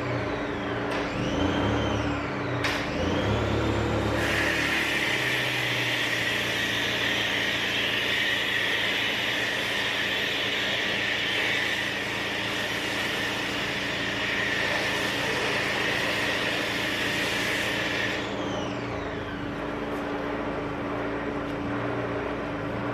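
Pressure washer running with a steady hum; about four seconds in, a loud high-pressure spray hiss starts and runs until about eighteen seconds, when it stops and only the machine's hum is left.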